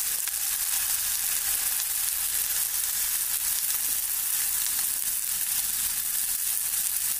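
Sliced fish sausage sizzling in hot oil in a nonstick frying pan: a steady, even high hiss of frying.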